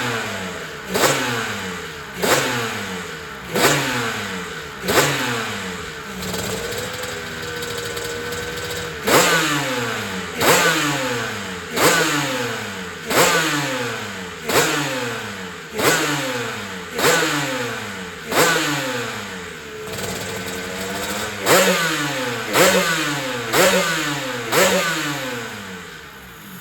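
Honda NS500 two-stroke three-cylinder racing engine being blipped over and over, about one sharp rev a second, each dying away in a falling pitch. Twice it settles to a steady tone for a few seconds before the blips resume.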